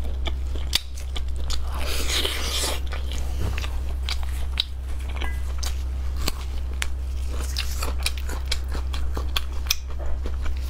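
Close-up chewing, biting and lip-smacking of braised tripe stuffed with lamb: a steady run of short mouth clicks, over a low steady hum.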